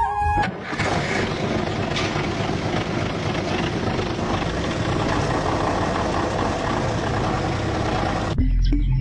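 An engine running steadily with a dense, even rumble that comes in abruptly about half a second in. A short flute tune cuts off just before it, and music takes over near the end.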